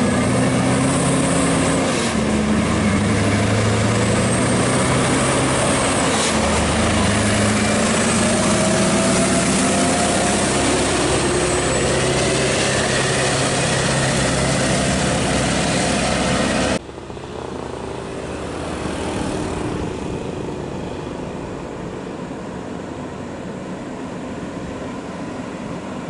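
Scania R580's V8 diesel engine running loud under load while hauling a crane, its pitch stepping up and down a few times. About 17 seconds in, the sound drops abruptly to a quieter, steady vehicle noise.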